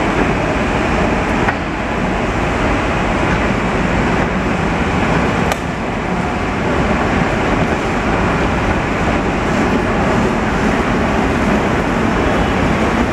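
Long Island Rail Road M7 electric train rolling into the station, a steady loud rumble of wheels on rail with no clear pitch. Two sharp clicks come through, about a second and a half in and again about five and a half seconds in.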